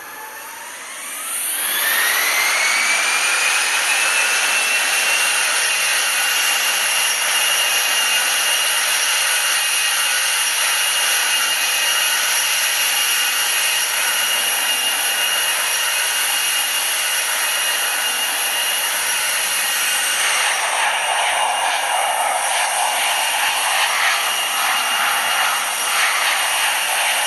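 Airbus A321 jet engines spooling up to takeoff thrust: a whine climbs steeply over about two seconds as the level jumps, then holds as a steady high whine over loud rushing noise. About two-thirds of the way through, a rougher rattling rumble joins in.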